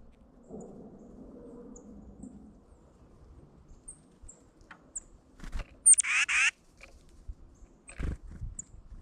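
Small birds, likely tufted titmice, giving faint, short, high chip notes every second or so, with one louder harsh call of about half a second around six seconds in. A single thump comes about eight seconds in.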